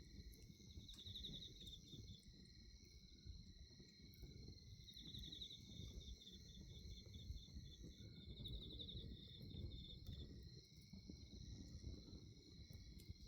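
Wood bonfire burning with a low, soft crackle and scattered small pops, under the steady high chirring of crickets; a pulsing insect trill comes in briefly about a second in and again from about five to ten seconds.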